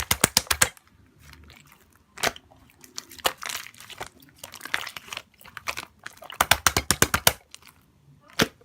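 Slime being pressed and squished by hand, crunching and crackling with quick runs of sharp pops and clicks.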